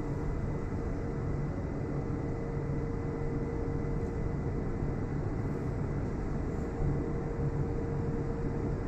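Steady low rumble of outdoor machinery or traffic noise with a constant hum that stops near the end.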